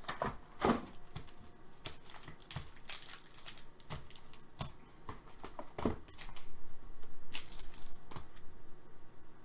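Hockey card boxes and packs being handled and opened: irregular rustling, crinkling and tearing of wrappers and cards, busier for the last few seconds.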